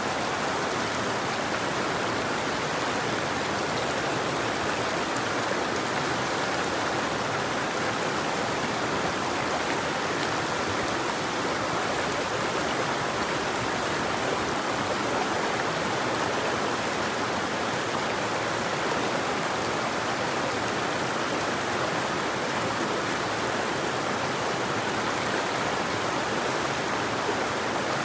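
River water flowing steadily over rocks, a constant even rushing with no birdsong.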